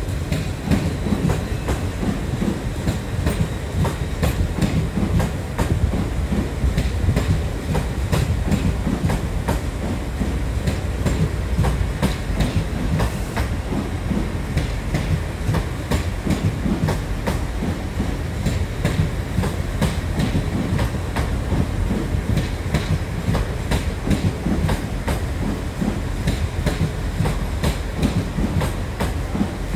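LNER intercity passenger train rolling slowly through the station, a steady rumble with irregular sharp clicks as its wheels pass over rail joints and points.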